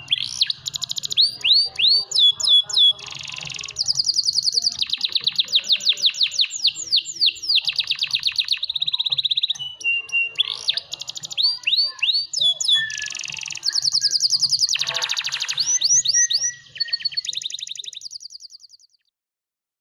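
Domestic canary singing a long, continuous competition-style song: fast rolling trills and quick up-and-down sweeping notes, changing from phrase to phrase with barely a pause. The song fades out and stops near the end.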